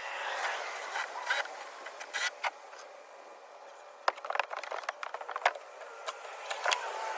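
Scattered knocks and clatters of wooden pieces and materials being picked up and handled, with a denser run of sharp clicks in the second half.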